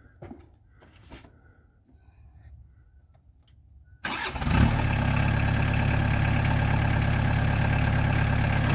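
A few faint clicks, then about four seconds in the 2003 New Holland TC40D compact tractor's diesel engine cranks briefly and catches. It settles into a steady idle.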